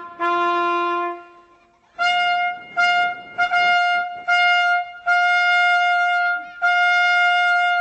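Trumpet fanfare: a held note, a pause of about a second, then a run of short repeated notes on one pitch that settle into long held notes.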